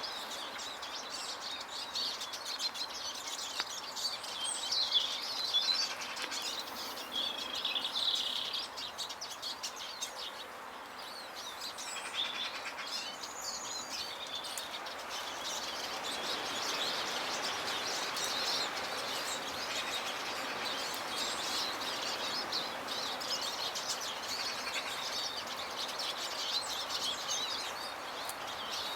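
Small garden birds, tits and finches, chirping and twittering around the feeders, with many short high calls overlapping over a steady background hiss.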